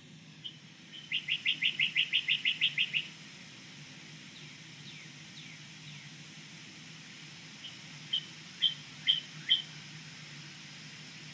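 Bird singing: a quick trill of about a dozen high chirps lasting two seconds, some faint falling notes, then four or five separate chirps.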